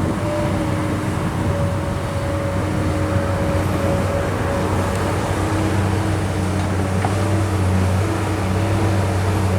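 Kobelco SK200 excavator's diesel engine running steadily under work, a constant hum with a few held tones over mechanical noise.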